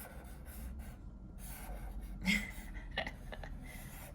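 A pen drawing on paper: a run of short, scratchy strokes one after another. A brief small vocal sound comes about two seconds in, and a light tap about three seconds in.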